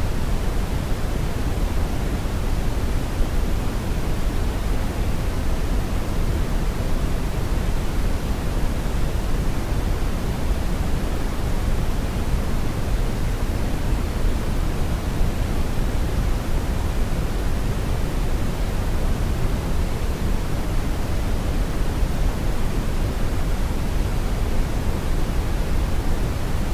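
Brown noise: a steady, unbroken hiss-like rumble with most of its energy in the low end, without any change.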